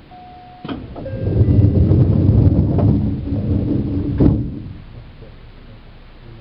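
Train noise heard inside a Seibu New 2000 series electric car: a sudden knock, then a loud low rumble lasting about four seconds, ending with a second sharp knock and fading away.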